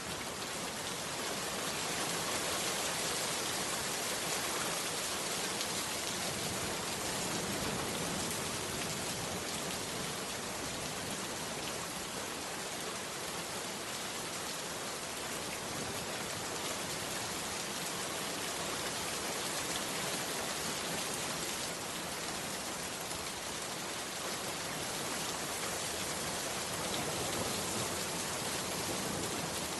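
Heavy rain falling in a steady downpour, an even hiss of many drops with no breaks.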